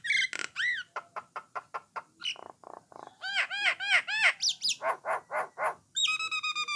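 Common myna (jalak nias / jalak coklat) singing a varied song: sharp clicks, a rapid chattering run of short notes, a string of arched whistled notes, and a held whistle near the end.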